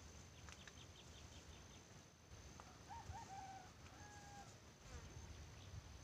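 Near-quiet open-air background with faint distant bird calls: a quick run of high chirps in the first second, then a call of a few short notes ending in one held note around the middle.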